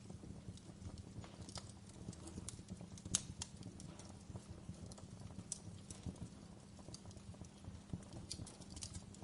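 Logs burning in a fireplace, crackling with irregular snaps and pops over a low steady rumble; one sharper pop about three seconds in.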